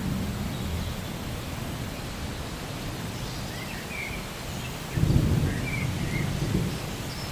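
Steady rainfall, with a roll of low thunder that starts suddenly about five seconds in and slowly fades.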